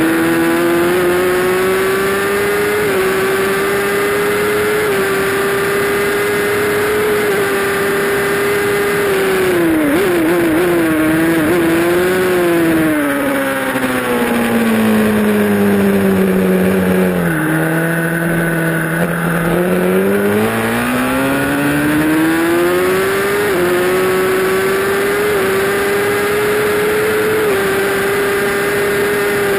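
Honda CBR1000RR's inline-four engine under race riding. It holds high revs with small steps at gear changes, then falls with short jagged rises as the rider brakes and shifts down, and runs low for a few seconds. It then climbs hard again through the gears back to high revs, with wind rushing over the bike throughout.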